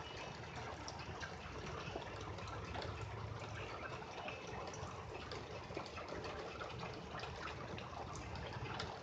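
Steady rain falling, a continuous hiss of water dotted with many small drops ticking.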